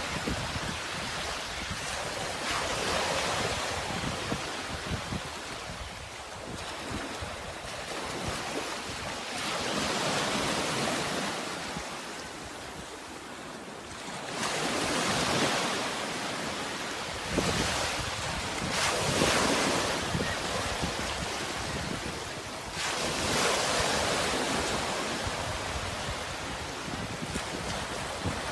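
Sea waves breaking and washing up the shore, each surge swelling and fading every few seconds, with a steady rush of wind underneath.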